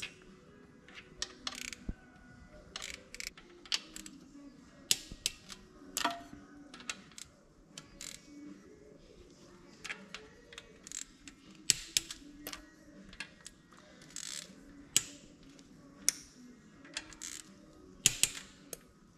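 Irregular sharp metallic clicks and clinks of tools and engine parts being handled while the camshaft and tappets come out of a VW Transporter T5 engine, over faint background music.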